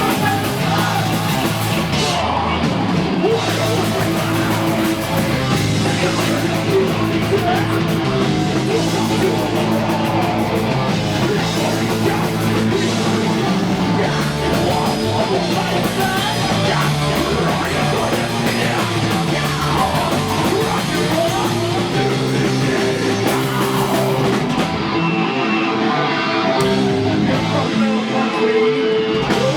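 Heavy metal band playing at full volume: distorted electric guitar over bass and drums, the bass line stepping from note to note.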